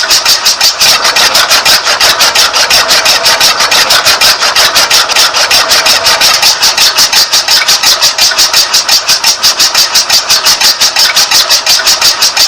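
A steady, fast chugging like a small engine idling, about seven even beats a second.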